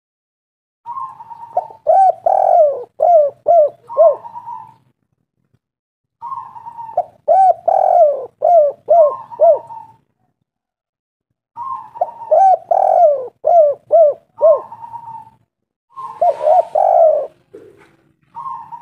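Spotted dove cooing: four phrases a few seconds apart, each a drawn-out note followed by a quick run of short falling coos. A brief hiss comes with the last phrase.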